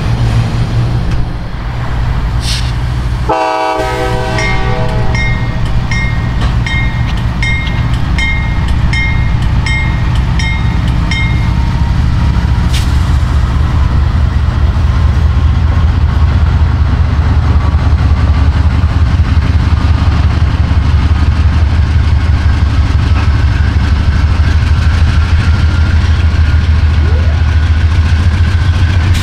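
Diesel locomotive rumbling, with a short horn blast a few seconds in, then a bell ringing at an even pace for several seconds. The engine rumble then grows louder as the train draws closer.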